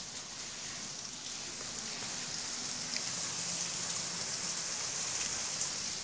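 Heavy rain pouring down steadily: a dense, even hiss with scattered small drop ticks.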